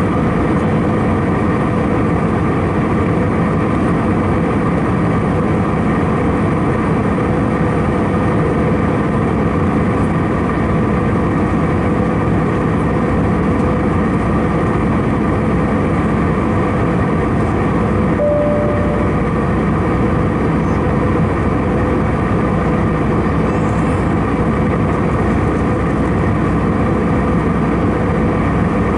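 Steady cabin noise of an Airbus A319-111 in flight: jet engine hum and airflow with a few constant tones. A short, single high tone sounds once, about two-thirds of the way through.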